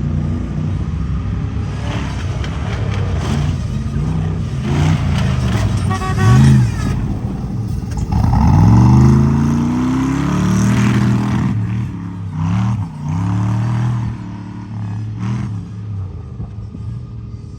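Tuff truck engine revving hard in repeated surges, its pitch climbing and falling again and again, with scattered knocks and rattles. The biggest rev climbs about eight seconds in.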